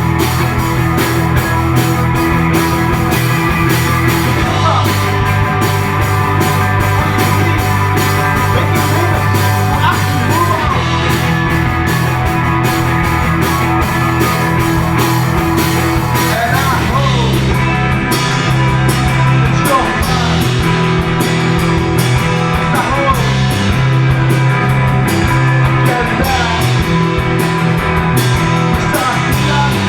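Live indie rock band playing loud and steady: drum kit, electric guitars and bass guitar, with the arrangement shifting a little past halfway through.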